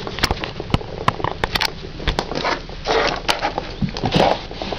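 Small hard plastic Bakugan toys clicking and knocking together in irregular taps, with rustling as cards and toys are handled.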